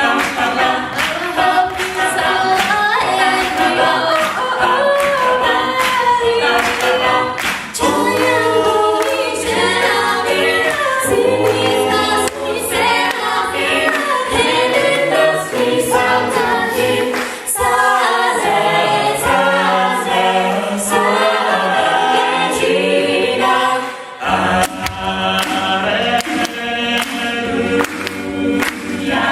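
An a cappella vocal group sings a gospel-style number in several parts, with no instruments. Sharp percussive beats keep time under the voices, and the singing briefly drops back about 24 seconds in before coming back in.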